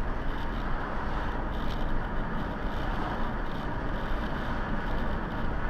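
Steady road and engine noise of a moving car, an even rush with a low rumble.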